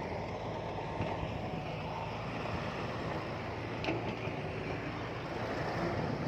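Heavy diesel earthmoving machinery engine running steadily, with a brief click about four seconds in.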